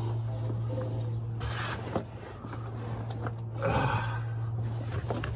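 A man breathing out heavily twice while crawling under a truck, with small scrapes and clicks of movement, over a steady low hum.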